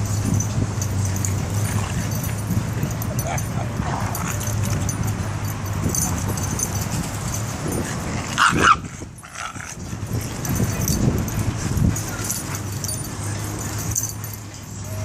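Dogs barking and yipping, with one loud bark about halfway through over a steady low rumble.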